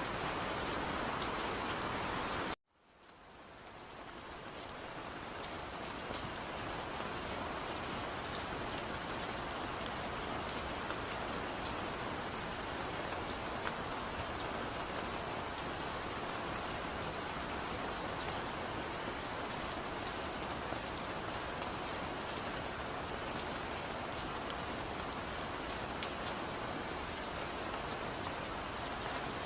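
Steady rain falling, with scattered drop ticks. About two and a half seconds in, it cuts out to silence at once and fades back in over a few seconds, a splice in the recording.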